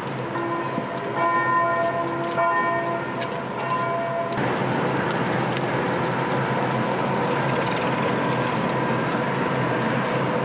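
Bells ringing in a few repeated strokes, each a cluster of steady clanging tones, for the first four seconds or so. They cut off abruptly into a steady rushing outdoor noise.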